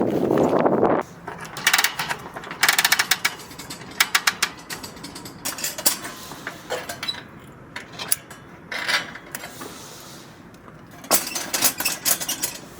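A loud rustle at the start, then short bursts of sharp mechanical clicking and rattling, a few seconds apart, like gear or parts being handled and snapped together.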